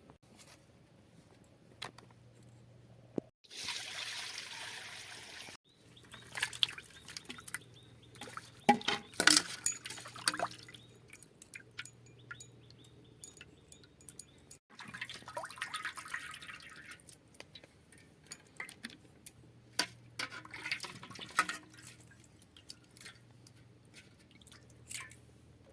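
Water being poured and splashing, in a few hissing stretches, mixed with many clicks and knocks of vessels and utensils being handled, a cluster of loud ones about a third of the way in.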